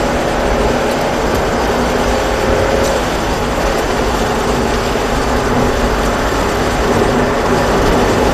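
Mazda 3 1.6 accelerating on a wet track, heard from inside the cabin: a steady engine note over constant road noise. The engine tone climbs slightly and breaks off about three seconds in.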